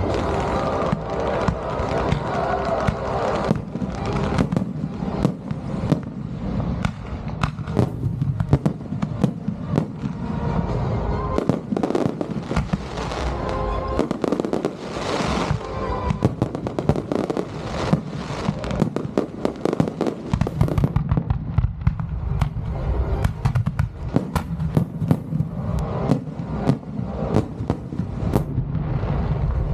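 Fireworks display: shells and comets launching and bursting in rapid succession, a dense run of sharp bangs and crackles, with music playing underneath.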